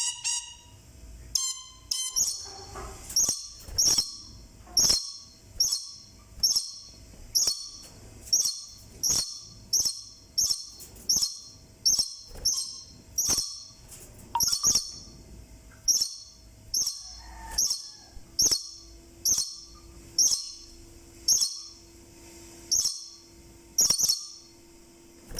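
A lory, a small parrot, calling: a few whistled notes at first, then short high calls repeated about once a second for the rest of the time.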